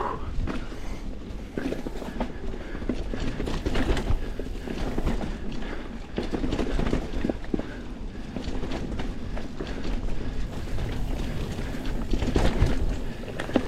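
Mountain bike riding a dirt trail: tyres rolling over dirt and roots with a low rumble, and the bike rattling and clattering over bumps.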